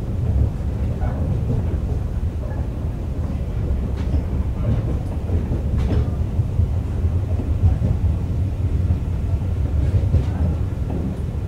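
JR East 101 series electric train heard from on board while running: a steady low rumble, with a few sharp clicks from the wheels passing over the track.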